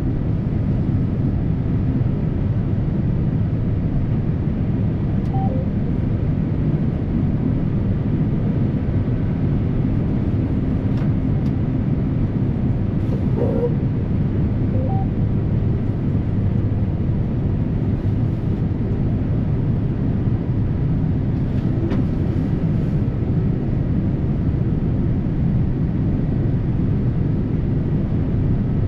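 Combine harvester running steadily: a loud, even, low engine-and-machinery drone.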